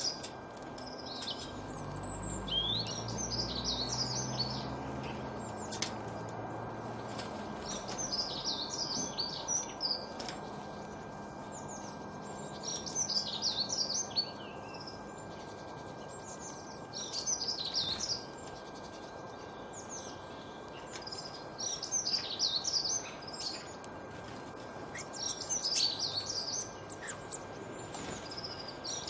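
Songbird singing short, rapid chirping phrases about every four seconds over a steady background hiss.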